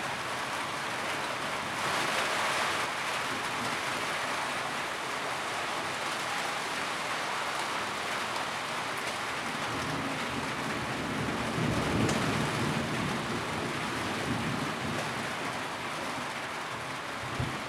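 Steady rain drumming on a tin roof, with a heavier patch about two seconds in. A low rumble rises and fades around the middle.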